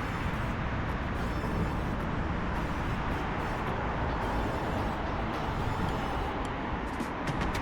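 Steady city road traffic noise with cars going by, heard from a moving bicycle.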